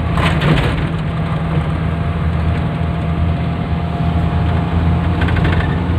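A 1986 Suzuki Carry's engine and road noise while it is driven, a steady low drone.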